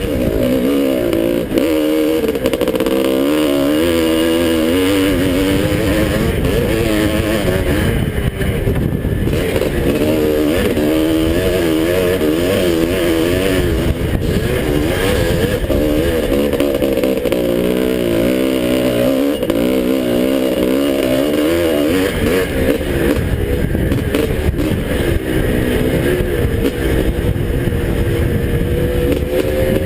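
1981 Husqvarna 430 two-stroke single-cylinder dirt bike engine racing around a motocross track, its pitch rising and falling over and over as the throttle is worked.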